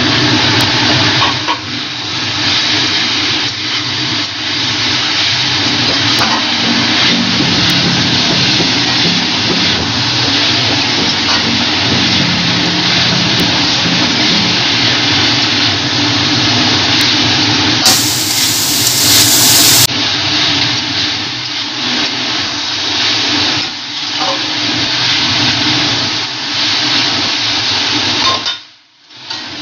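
Chicken, carrot and capsicum sizzling loudly in hot oil in an aluminium kadhai while they are stir-fried, with a spatula scraping and tossing them against the pan. The sizzle drops out briefly near the end.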